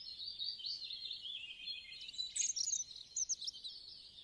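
Small birds chirping and twittering, a steady run of quick, high-pitched chirps with a busier, louder flurry a little past the middle.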